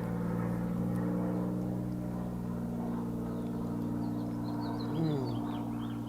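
A steady motor drone with an even, unchanging hum, with a few faint high bird chirps about four seconds in.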